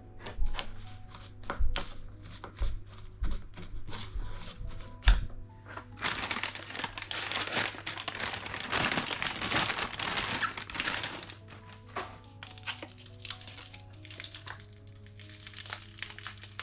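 Kitchen food-preparation sounds over soft background music: a series of knocks with dull thuds in the first few seconds, then about five seconds of continuous crinkling and rustling, then a few light clicks.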